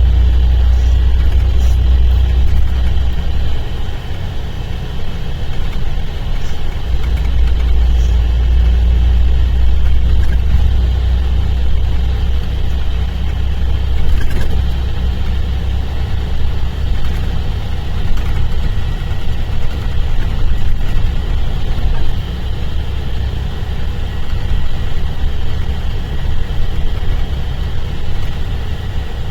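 Mercedes-Benz O-500RSD coach's diesel engine running with a heavy low rumble, which eases about four seconds in and comes back strong about three seconds later.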